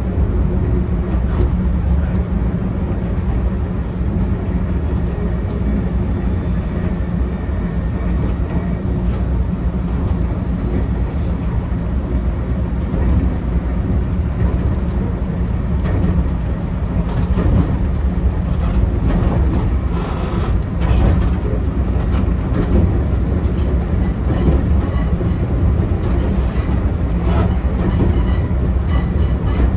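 Enoden electric train running slowly and gathering speed, heard from the driver's cab: a steady low rumble, with sharp clicks and knocks that come more often in the second half.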